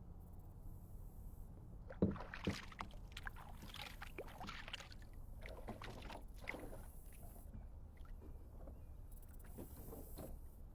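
Kayak paddle strokes splashing and dripping in the water, with two sharp knocks about two seconds in.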